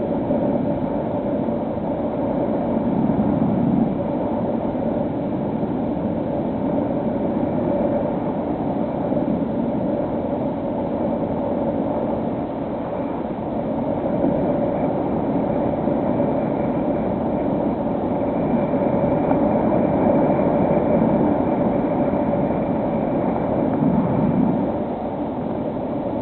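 Steady drone of a model plane's electric motor and propeller in flight, with a constant hum and wind rushing over the microphone that swells and eases every few seconds.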